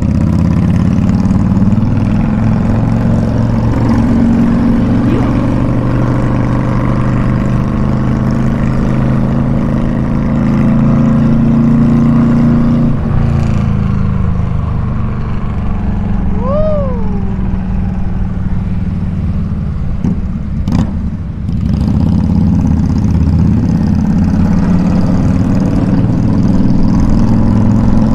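Motorcycle engine and exhaust running steadily while riding in traffic. The strong engine note eases off about halfway through. A short rising-and-falling chirp follows, then a sharp click a few seconds later.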